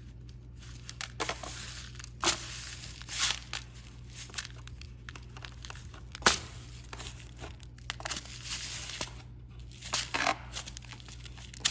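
Loose bird seed rustling and crunching in a pan as a peanut-butter-coated pine cone is rolled through it. The scrapes come irregularly, with a sharper knock about six seconds in.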